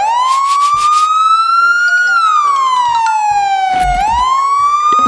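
Wailing siren, one tone rising slowly for about two seconds, falling for about two, then rising again. A few clicks sound in the first second and a low thump near the end.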